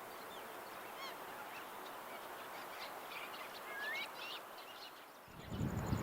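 A flock of waterbirds giving many short, high calls over a steady hiss. Music begins near the end.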